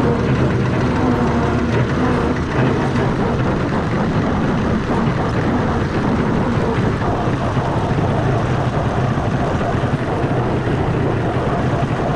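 Perkins six-cylinder diesel in a Fordson Major tractor running steadily under load while the tractor pulls a slasher cutting grass.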